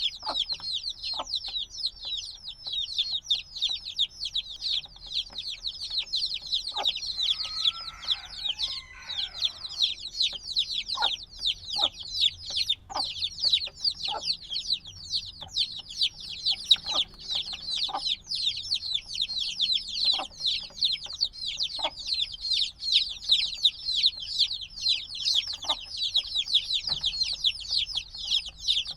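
A brood of chicks a few days old peeping continuously: many overlapping short, high, falling chirps. Occasional short clicks sound among them.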